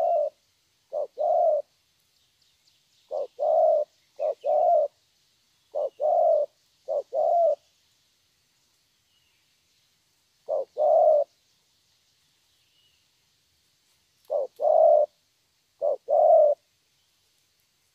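Spotted dove cooing repeatedly, each call a short note followed by a longer one, in runs of several calls with pauses of a few seconds between runs. Faint chirps of small birds in the background.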